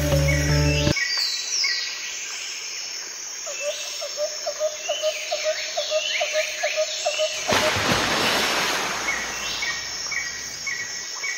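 Birds chirping and calling in repeated short notes, with a rush of noise partway through. A music track cuts off about a second in.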